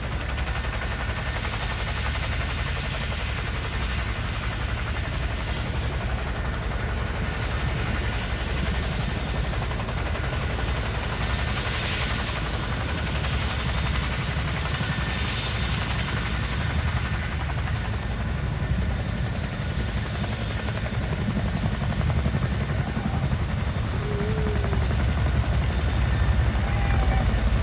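Boeing CH-47 Chinook helicopter running on the ground, with a steady low rotor beat and a high turbine whine, growing a little louder near the end.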